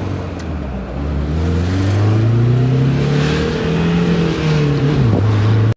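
A vehicle engine accelerating, its pitch rising steadily for a few seconds and dropping near the end, before the sound cuts off abruptly.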